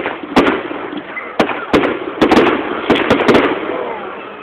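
Fireworks display: a rapid string of sharp bangs from bursting fireworks, about nine in all and thickest between two and three and a half seconds in, then fading off.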